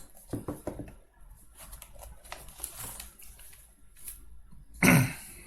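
Irregular light clicks and taps of typing on a computer keyboard, with a short, louder burst near the end.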